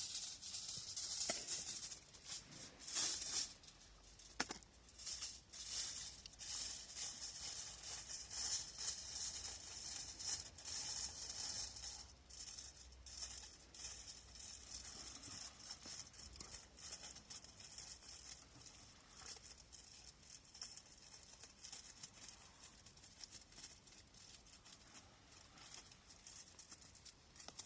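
Rustling, crinkling and scraping of material being shaped by hand into a lid, with scattered sharp clicks, busiest in the first half and thinning out later.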